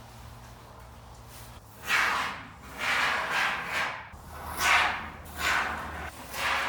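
Can of expanding foam being sprayed in a run of about five short hissing bursts, starting about two seconds in.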